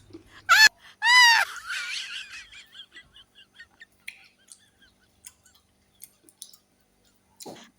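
Two short, loud, high-pitched cries about half a second and a second in, the second arching up and then falling, followed by a few faint chirps and then quiet.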